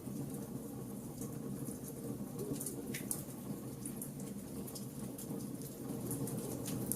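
Wood fire burning: a steady low rush of flames with scattered small crackles and pops of burning wood, one sharper snap about three seconds in.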